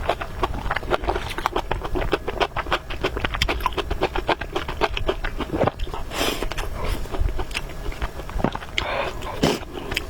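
Close-miked eating sounds: rapid, wet chewing and smacking of a mouthful of noodles and meat, with a couple of longer, louder noisy sounds about six and nine seconds in.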